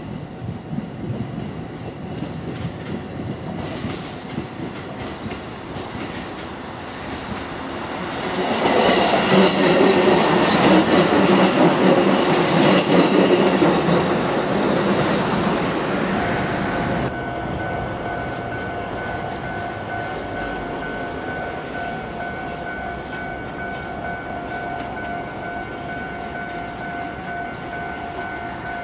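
Kotoden 1080-series electric train (ex-Keikyu 1000 series) running past, swelling up about a third of the way in and fading away. After an abrupt cut, a level-crossing warning bell rings steadily as a repeating two-tone chime.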